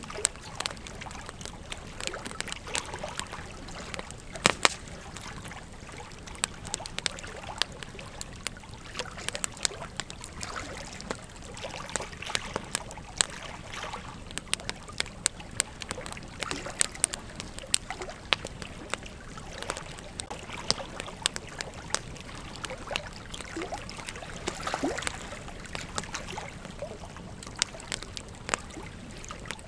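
Campfire burning, wood crackling and popping in frequent sharp snaps over a steady hiss.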